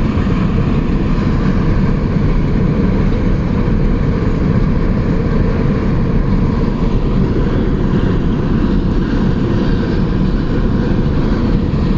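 Freight train cars rolling past, a loud steady rumble of wheels on rail.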